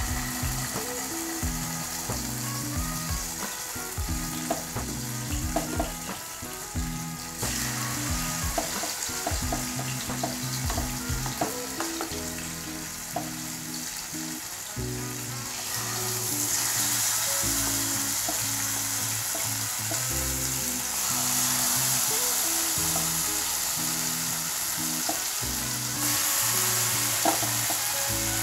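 Marinated chicken pieces sizzling in hot oil in a frying pan as they are laid in one by one, with short knocks in the first half. The sizzle grows louder about halfway through as more pieces fry.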